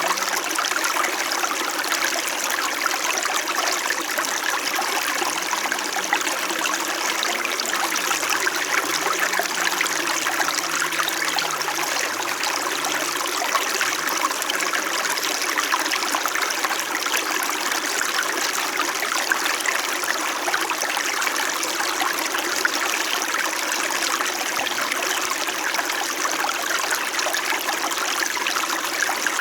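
Small winter mountain stream flowing: a steady, gentle babble and trickle of running water.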